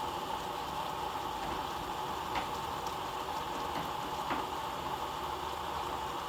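Water bubbling at a simmer in a double-boiler pot on a stove burner, melting candle wax, with a couple of faint ticks.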